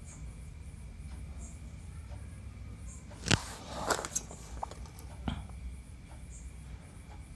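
A few sharp clicks and knocks of handling wires and tools while soldering joints on an amplifier's control board, the loudest just under halfway in, over a steady low hum.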